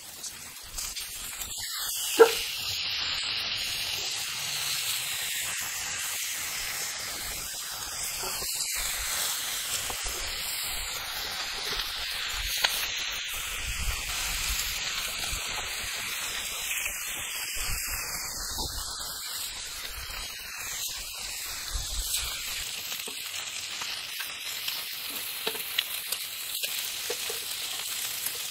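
Bacon, sausages and red capsicum sizzling and spitting in a frying pan over wood coals. A sharp clack about two seconds in, after which the sizzle gets louder.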